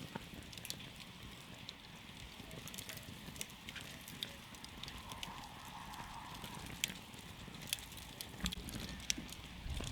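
Wood campfire crackling, with frequent sharp snaps and pops over the low, steady rumble of the flames.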